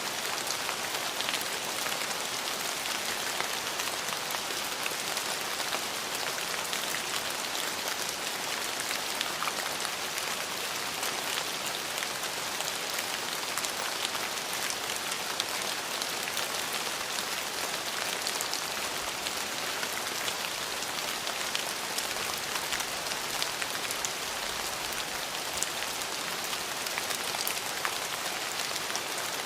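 Steady rain falling, a constant hiss peppered with close drop ticks hitting surfaces.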